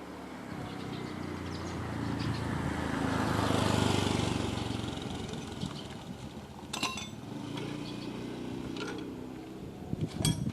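Engine running steadily, swelling louder for a couple of seconds around the middle and easing off again, with two sharp metallic clinks later on.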